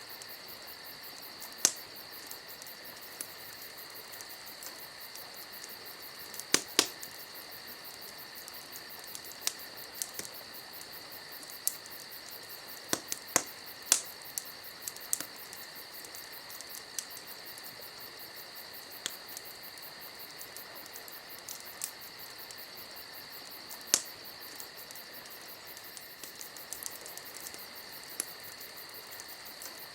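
Crickets chirping steadily, over a campfire crackling with irregular sharp pops and snaps, a few of them louder than the rest.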